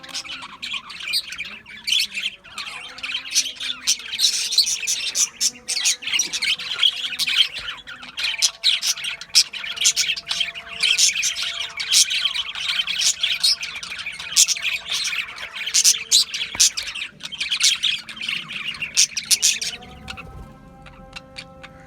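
A flock of budgerigars chattering and chirping in rapid, dense bursts, with faint background music underneath. The chirping stops about two seconds before the end, leaving the music.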